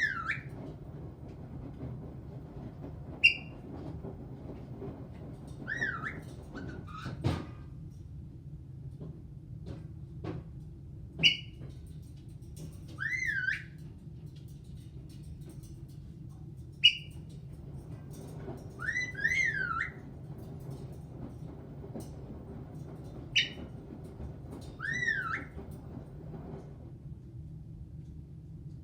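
Caique parrot giving short, sharp high chirps about every six seconds, each followed a couple of seconds later by a whistle that rises and falls in pitch, four times over, above a steady low hum.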